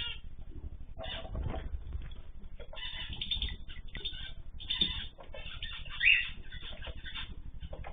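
Ornamental pet birds calling in short, irregular chirps and squawks, with one louder call about six seconds in.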